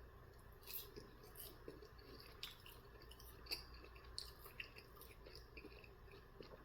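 Faint, irregular chewing with wet mouth clicks and smacks: someone eating butter-sauced chicken nuggets close to the microphone.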